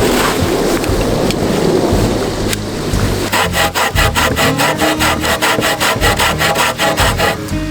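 Wood being worked by hand with a saw or blade: quick, even scraping strokes, about six a second, from about three seconds in.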